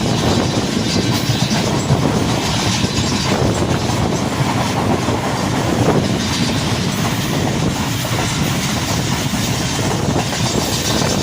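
Passenger express train running along the track: a steady, loud rumble of wheels on the rails.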